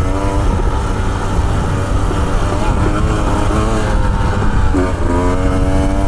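Motorcycle engine running under throttle on a rough dirt track, its pitch rising and falling with the throttle, over a heavy low rumble. The note drops sharply a little before the end and then climbs again.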